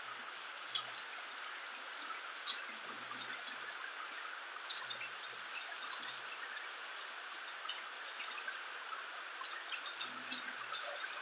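Rain falling steadily, a continuous hiss with many individual drops ticking and dripping close by.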